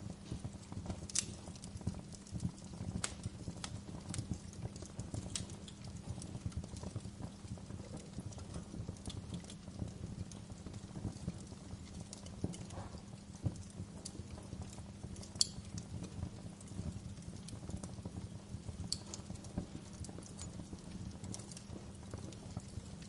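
Wood fire crackling in a fireplace: a dense, low, flickering crackle with sharp snaps scattered irregularly throughout, the loudest about fifteen seconds in.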